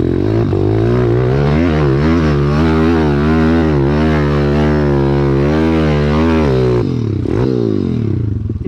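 Single-cylinder four-stroke pit bike engine revving under load on a hill climb, the revs rising and falling with the throttle, then dropping off sharply about seven seconds in.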